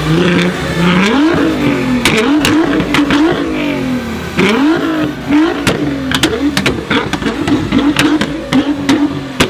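A performance car engine revved in quick repeated blips, its pitch rising and falling again and again, with many sharp pops scattered through.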